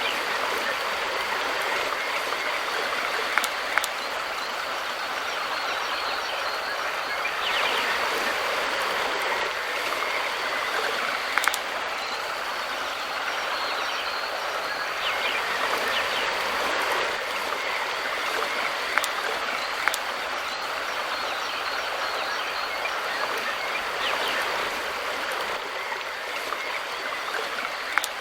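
Mountain river flowing: a steady rush of running water, with a few brief sharp clicks from the water now and then.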